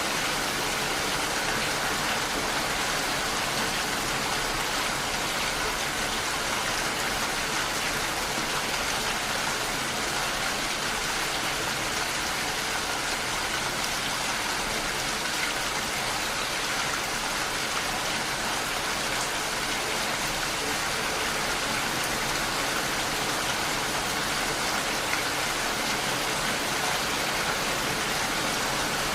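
Steady rain falling, an even, unbroken hiss of rain with no let-up.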